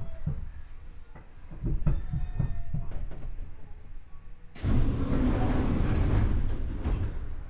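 Chiba New Town Railway 9100-series electric train slowing for a station stop, heard from inside the car: wheels knock over rail joints at a slowing pace, with a faint motor whine. About four and a half seconds in, a sudden loud hiss lasts for about two and a half seconds.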